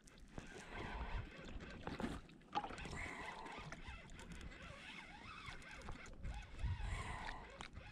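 Water sloshing and lapping around a fishing kayak, with a few sharp knocks.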